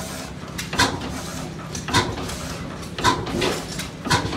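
40 hp Clark oil field gas engine running slowly just after being air-started: four sharp, evenly spaced exhaust beats, about one every 1.2 seconds, over a low steady hum.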